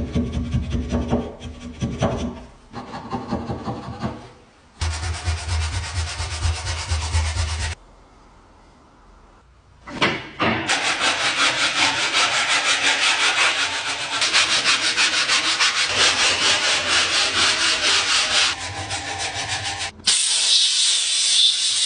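Sanding on parts of an old hand wringer, heard in several short stretches joined by abrupt cuts. There is a brief quiet pause near the middle, and the longest stretch has a fast, even scratching rhythm.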